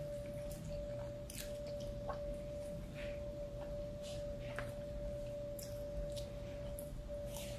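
Close-up eating sounds: chewing and mouth noises and a few light clicks as rice is eaten from a plastic fork, under a steady high-pitched tone that runs throughout.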